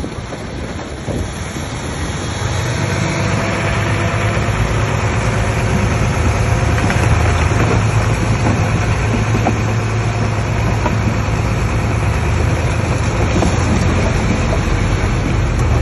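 Bulldozer's diesel engine running steadily under load, with a broad clatter of working noise. It grows louder over the first few seconds, then holds steady.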